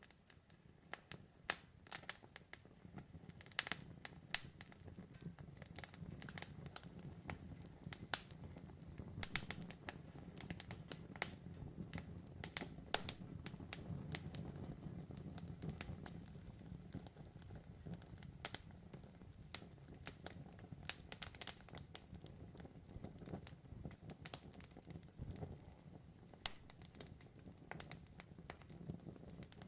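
Campfire burning: wood crackling and popping in irregular sharp snaps over a low, steady rush of the flames.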